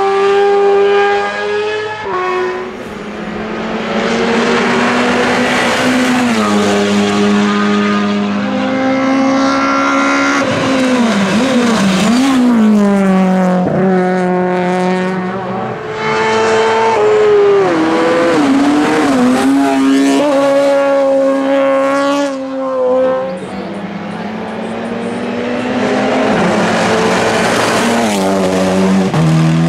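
Hillclimb race car engine at full throttle, its pitch climbing through each gear and dropping sharply at each shift. The pitch falls and warbles as the driver lifts off and downshifts for corners, then climbs hard again.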